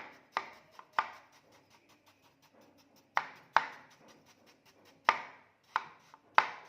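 Kinetic sand being worked in a series of sharp, short strokes, each fading quickly. They come in irregular clusters, with a pause of about two seconds after the first few.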